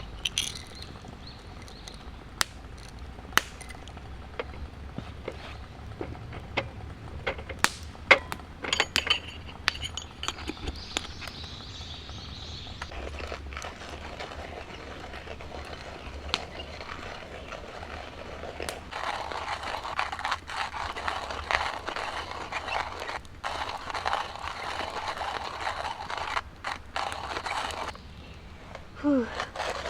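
Campfire cooking sounds: scattered sharp clicks, knocks and clinks of utensils and gear, then from about nineteen seconds in a steady hiss with light crackle that breaks off briefly a few times.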